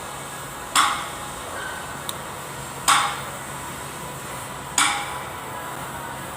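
Three sharp metallic knocks about two seconds apart, each with a brief ring, over steady background noise.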